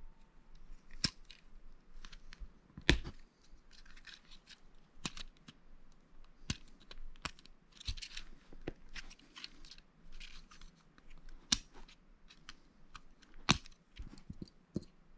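Plastic Lego bricks clicking as they are pressed together, a sharp click every second or two, with soft rustling of pieces being handled between them. The loudest clicks come about three seconds in and again near the end.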